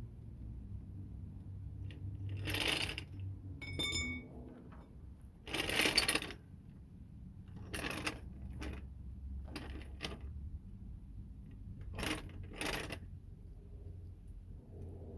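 Metal tools or parts being handled and set down in a string of separate clanks and scrapes, with one bright metallic ring about four seconds in, over a low steady hum.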